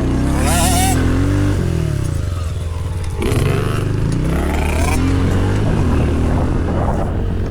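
Small motocross bike engines running, throttled up twice: the pitch rises about half a second in and again around three seconds in, each time with a noisy surge.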